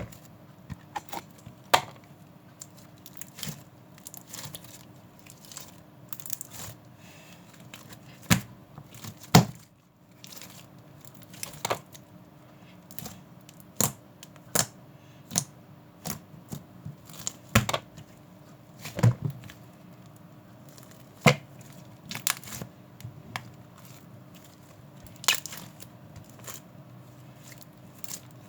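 Irregular close-up handling noises: scattered clicks, taps and crinkling, with a faint steady hum underneath.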